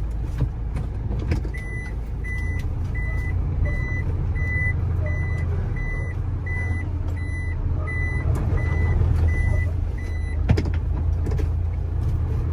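A truck's engine runs with a steady low rumble. A reversing alarm beeps about one and a half times a second for some eight seconds, then stops. A single sharp knock follows.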